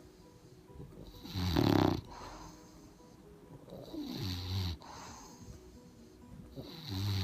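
A sleeping bulldog snoring: three rasping snores about three seconds apart, the first the loudest, with quieter breathing between them.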